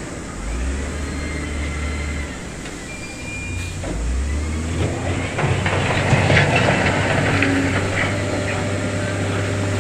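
Heavy diesel construction machinery running steadily, with louder scraping and clattering of stone from about five seconds in.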